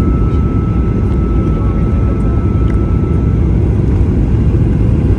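American Airlines Boeing 737-800 jet airliner making a steady, loud low rumble, with a faint thin tone above it that stops about two-thirds of the way through.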